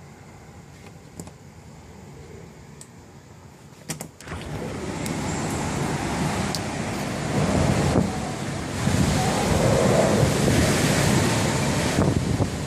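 Typhoon wind gusting hard and buffeting the smartphone's microphone. It is fairly quiet at first; a couple of sharp clicks come about four seconds in, and then the wind gets much louder and rushes on in gusts.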